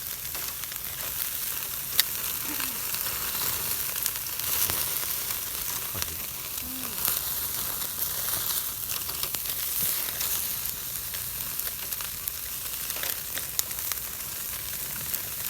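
Slices of meat sizzling on a grill over a campfire: a steady crackling sizzle with small pops throughout, and one sharp pop about two seconds in.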